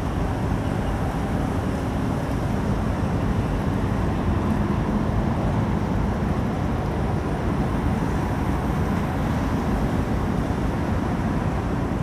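Steady low rumble of a container ship's engines, with a faint even hum over it.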